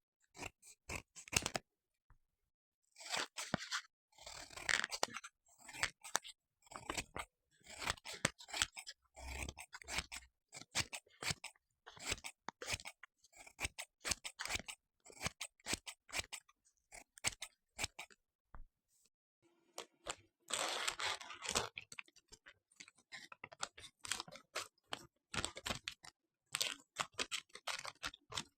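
Irregular close-up clicks, crackles and short scraping rustles, with longer rustling stretches about a sixth of the way in and again about two-thirds through.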